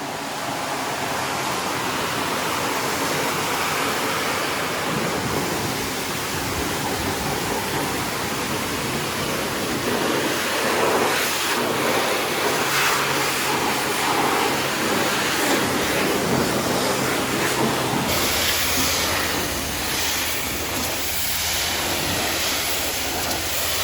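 Motor vehicle on the move: a steady rush of wind and road noise with a faint engine drone underneath. The sound changes abruptly about eighteen seconds in.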